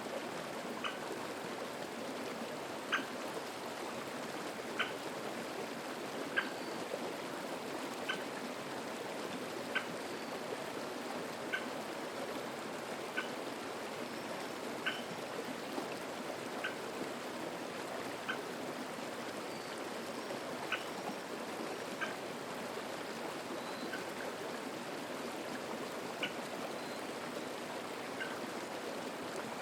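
A mountain stream babbling steadily over rocks. Over it, a songbird repeats one short, sharp call about every second and a half.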